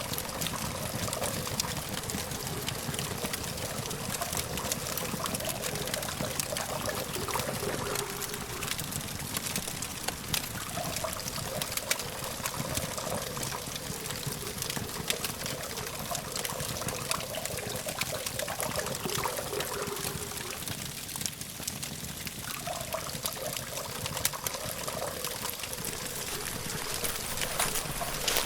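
Campfire burning, with many small snaps and pops over a steady hiss and a wavering hiss that comes and goes, above a low hum of distant traffic.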